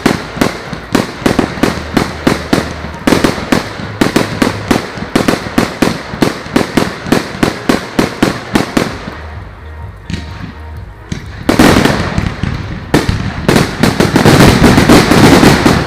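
Fireworks going off in a rapid barrage, about three to four bangs a second for the first nine seconds. After a short lull come loud, dense crackling bursts near the end.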